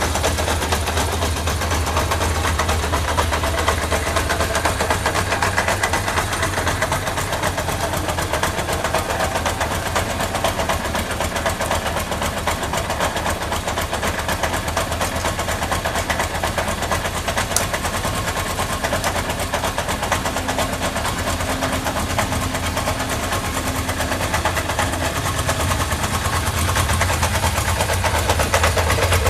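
Kawasaki GPZ550 air-cooled inline-four engine idling steadily and evenly, a sign that it runs well at idle, getting a little louder near the end.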